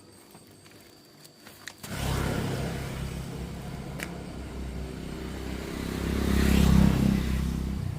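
A vehicle engine comes in suddenly about two seconds in and grows louder to a peak near the end before easing off, like a vehicle driving past close by. A short click sounds about four seconds in.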